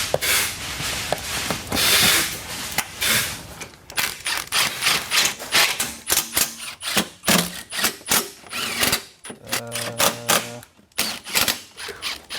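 Plastic trim pieces rustling and scraping, then a ratchet wrench clicking in rapid runs as small 10 mm bolts are run in, with two short buzzing hums in the second half.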